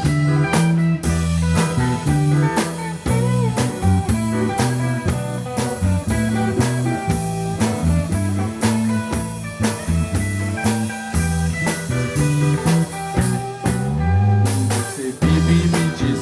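Pop-rock band playing an instrumental passage: electric guitar over a busy bass line and drum kit, with no vocals. About fourteen seconds in the band drops out briefly under a sliding bass note before coming back in.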